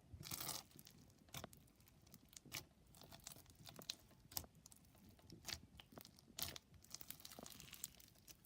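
Slushy bead-filled slime being squished and crunched by hand, giving faint, irregular crackles and pops as the beads and trapped air bubbles are pressed.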